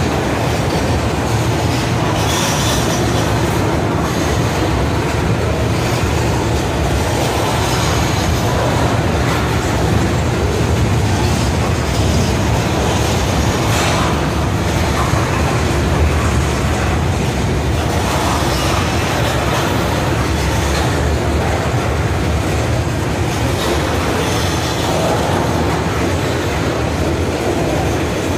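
Freight train of covered hopper cars rolling past close by: a steady rumble of steel wheels on rail, with occasional clacks as the wheels cross rail joints.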